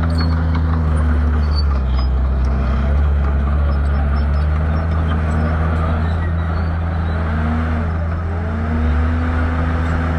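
Shantui bulldozer's diesel engine running steadily under load, its note dipping and recovering several times as it pushes.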